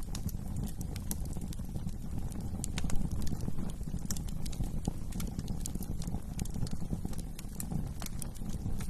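Wood fire crackling in a fireplace: many sharp pops and snaps over a steady low rumble of the flames, with a few louder pops about three seconds in.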